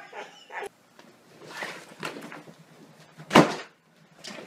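One loud, short thump about three and a half seconds in, among a few fainter knocks.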